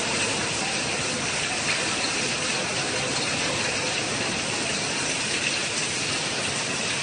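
Heavy cyclone rain falling, a steady, even hiss with no letup.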